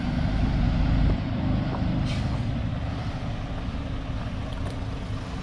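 Heavy vehicle engine running close by with a steady low rumble, loudest about a second in, with a short hiss of air about two seconds in.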